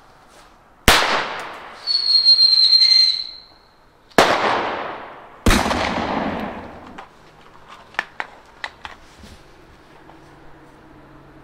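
Blank-firing pistol launching a 15 mm whistle-and-bang pyrotechnic cartridge: a sharp shot, then a steady high whistle lasting about a second and a half, then a bang with a long echoing tail. A second sharp shot follows about a second later, and a few light clicks come near the end.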